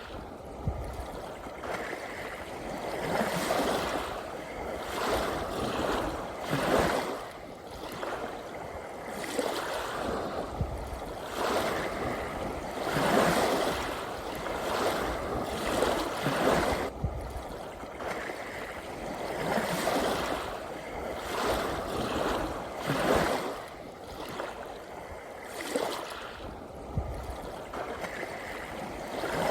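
Small sea waves lapping and washing in, swelling in uneven surges every second or two.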